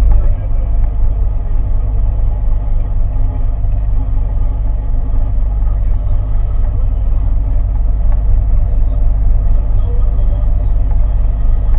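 A boat's engine running steadily with a low, even rumble.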